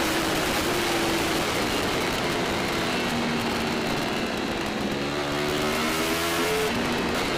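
Yamaha R1 superbike's inline-four engine at racing revs under thick wind rush. The engine pitch climbs and then steps down a couple of times as gears change.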